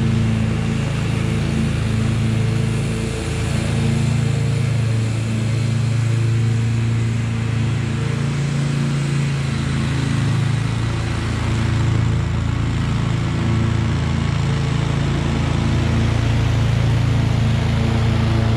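Husqvarna V554 stand-on zero-turn mower running steadily at mowing speed, with its level dipping briefly twice.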